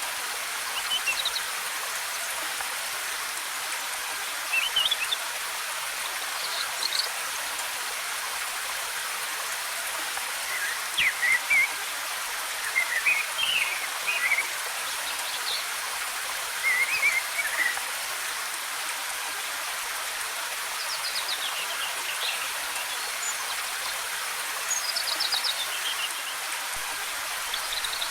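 Steady rush of a waterfall, with forest birds chirping in short, high phrases every few seconds.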